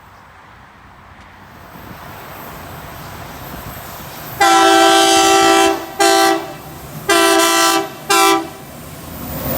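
Freight train locomotive horn sounding four loud chord blasts, long-short-long-short, over the rising rumble of the approaching train.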